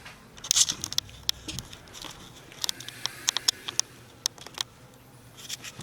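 Scattered small clicks and rustling from handling an anti-static wrist strap as it is put on.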